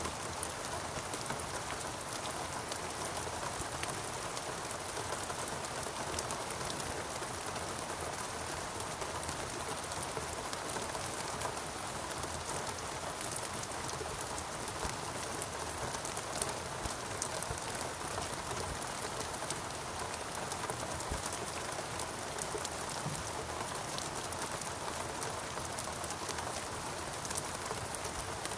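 Steady rain, a dense even patter of many small drops striking surfaces.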